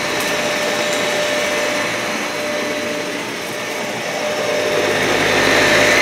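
Dyson vacuum cleaner running steadily over matted carpet, a constant motor hum under the suction noise, swelling louder near the end.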